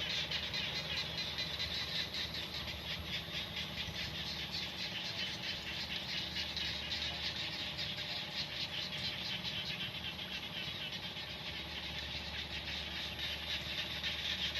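Small frogs calling from a flooded rice paddy in a continuous, rapidly pulsing chorus, over a steady low hum.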